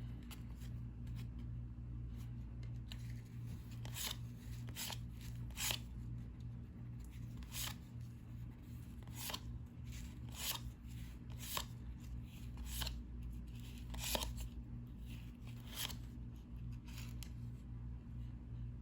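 Cardboard basketball trading cards being flipped through one at a time, each card giving a short, sharp flick at irregular intervals of about a second, over a steady low hum.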